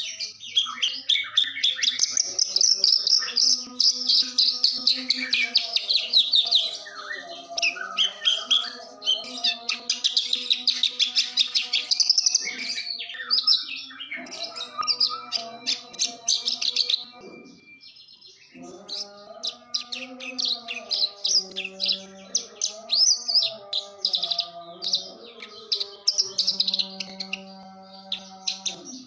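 Javan bush lark (branjangan) song: a long run of rapid chirps and trills, with lower, steadier tones beneath it. The song breaks off briefly a little past halfway, then resumes.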